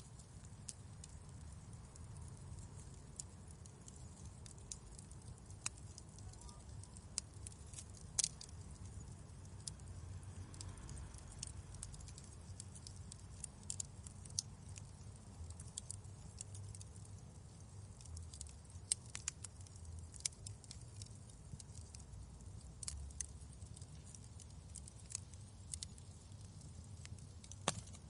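Wood fire crackling in a fireplace: irregular sharp pops and snaps over a faint, steady low rumble.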